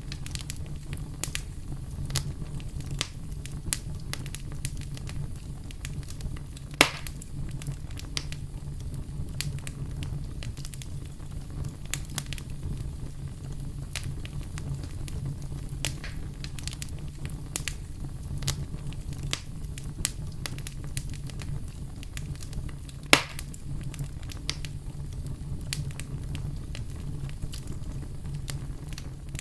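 Wood fire crackling: frequent small snaps over a steady low rumble, with two louder pops, one about a quarter of the way through and one about three-quarters of the way through.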